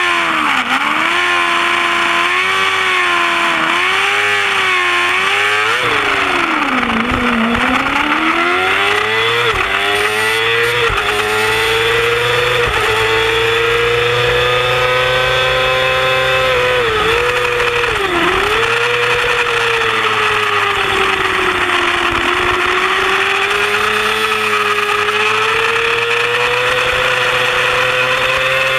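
Yamaha R6's inline-four engine at racing speed, heard from onboard over steady wind rush. The revs rise and fall through gear changes: a long drop and climb about six to eight seconds in as it slows and drives out, and two quick dips from upshifts past the middle.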